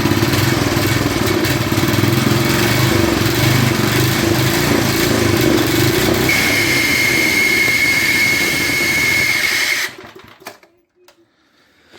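Snapper tiller's 5 horsepower Briggs & Stratton single-cylinder engine running steadily. A steady high whistle joins about six seconds in, and the sound cuts off suddenly near the end.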